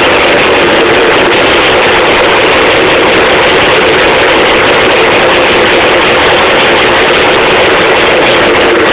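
1984 Husqvarna WR400 two-stroke engine running steadily and loud.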